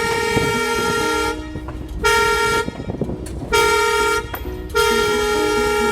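Train horn sounding a series of blasts with a steady chord: a long blast ends about a second in, two short blasts follow, and a longer blast sounds near the end.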